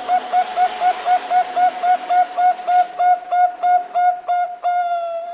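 Zebra dove (Bangkok-type perkutut) cooing: a rapid, even run of short coos, about four a second, ending in one longer drawn-out note.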